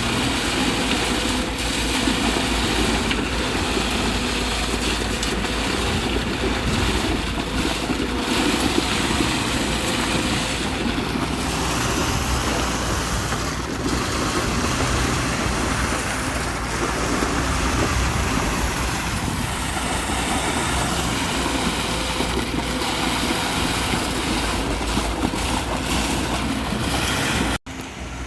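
A vehicle's engine running steadily under loud wind noise on the microphone, as when riding along a road. The sound cuts off abruptly near the end, then returns quieter.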